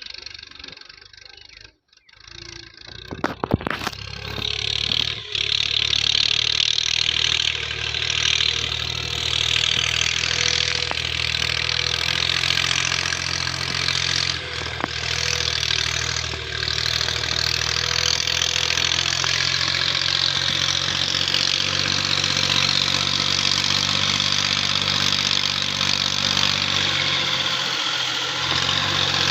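Massey Ferguson tractor's diesel engine starting up a few seconds in, then running steadily.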